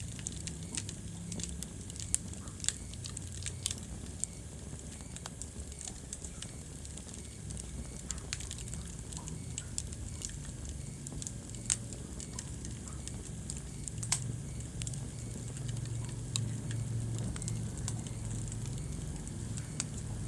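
Wood fire burning in a fireplace, crackling with scattered sharp pops over a steady low rumble and hiss.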